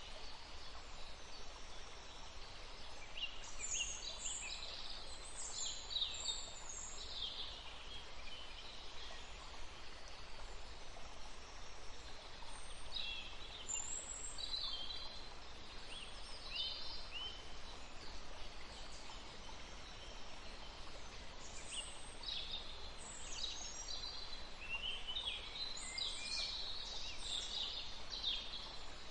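Small songbirds chirping and twittering in three bouts of quick, high notes over the steady rush of a forest stream.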